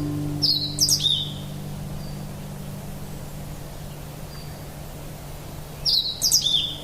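A songbird calling in two short bursts of high chirps with quick falling notes, about five seconds apart, over a steady low hum. The last notes of an acoustic guitar die away at the start.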